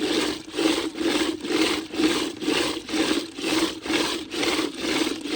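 Rhythmic back-and-forth rubbing strokes, about two a second, each a rasping scrape with a steady low tone in it.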